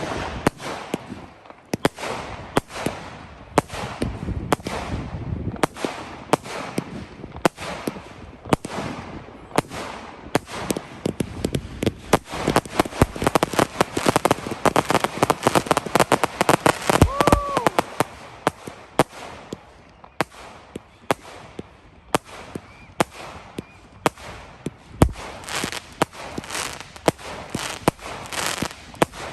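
Fireworks going off: a string of sharp bangs and pops, thickening into dense crackling in the middle, with a short pitched squeal partway through.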